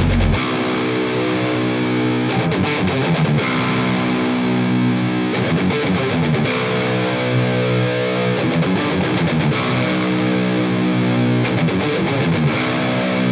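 Distorted electric guitar, a Telecaster in drop B tuning through a high-gain amp profile with boost and delay, playing long ringing chords that change about every three seconds. The heavy low backing stops just after the start, leaving the guitar alone.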